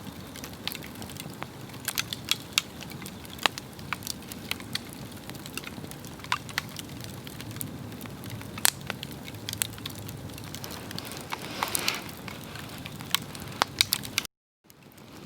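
Swedish torch log fire burning: the wood crackles with irregular sharp pops over a steady low rush of flame. The sound cuts out for a moment near the end.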